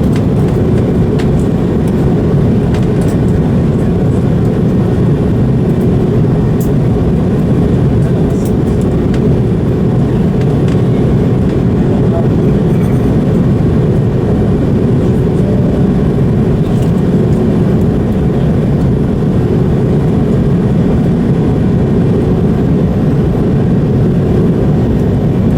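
Airliner cabin noise on approach: a steady, even rumble of the jet engines and airflow, with a faint steady hum.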